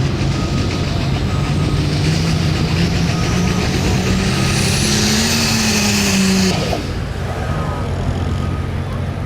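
Turbocharged diesel pulling tractor engine running hard under load, its pitch climbing slowly with a high whine rising alongside it. About six and a half seconds in, the high whine cuts off sharply and the engine drops back to a lower, quieter steady running.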